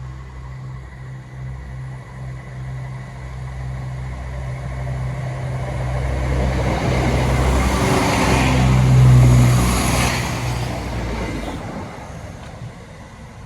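Diesel multiple unit passing: a steady low engine note, with engine and wheel rumble that swells to a peak about nine seconds in, then fades as the train draws away.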